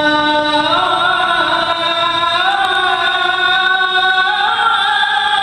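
A man's voice chanting the adhan, the Islamic call to prayer, in long melismatic held notes that step up in pitch twice.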